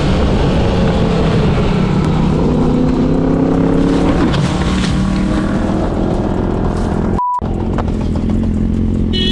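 Motorcycle engine running over road and wind noise, its pitch rising gently for a couple of seconds as it accelerates. A short, steady beep cuts through about seven seconds in.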